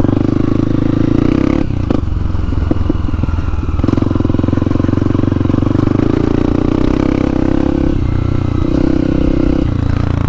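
Trail motorcycle engine running while being ridden, with a steady engine note. About two seconds in the throttle eases off and the note breaks up, then it picks up again about two seconds later.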